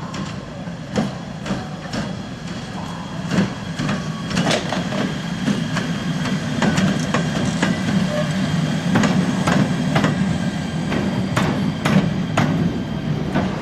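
Shunting railway locomotive moving slowly, with irregular sharp metallic clanks and knocks over a low hum that grows louder as it approaches.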